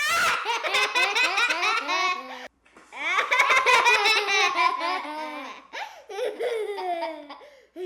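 Young children laughing hard and high-pitched, in two long bouts with a short break about two and a half seconds in.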